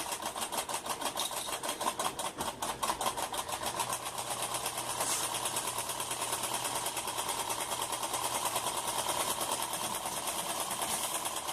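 Small model Stirling engine running, its moving parts making a fast, even mechanical clatter of many ticks a second.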